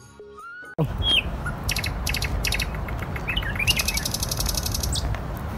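A flute-led music cue stops under a second in. It gives way to outdoor ambience: a steady low rumble with small birds chirping, including a rapid run of repeated chirps near the middle.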